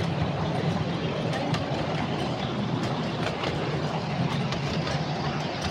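Miniature railway train running along its track: a steady rumble with scattered light clicks.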